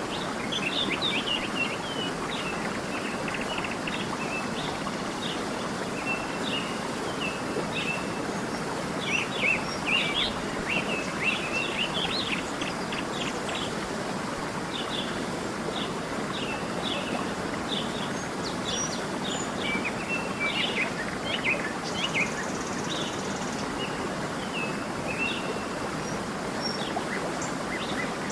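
Small songbirds chirping and twittering in quick, repeated short notes, busiest about a third of the way in and again past two-thirds, over a steady even rushing background.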